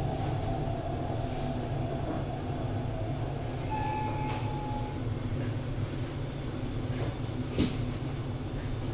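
MTR East Rail line R-Train electric multiple unit heard from inside the car as it slows along the platform and comes to a stop: a steady low rumble, a brief high tone about four seconds in, and a sharp clunk near the end.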